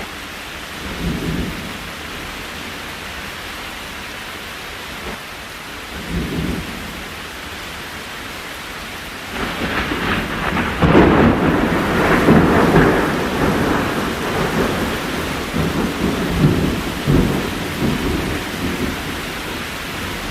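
Steady rain with thunder: two brief low rumbles in the first half, then a louder, long rolling peal from about halfway that slowly dies down.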